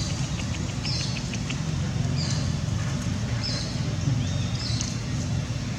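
A bird chirping repeatedly, a short high falling note about once every second or so, over a steady low rumble, with a quick run of faint ticks in the first second and a half.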